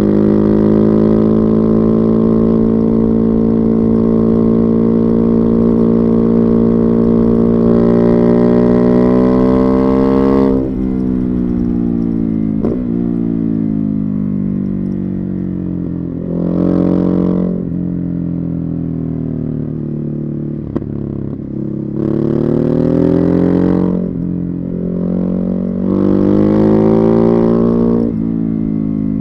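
Ducati Hypermotard 950's Testastretta 11° L-twin with a Termignoni exhaust, heard from on the bike. It holds a steady throttle for about ten seconds with the pitch slowly climbing. Then the throttle closes and the pitch falls, followed by three short bursts of throttle, each dropping back again.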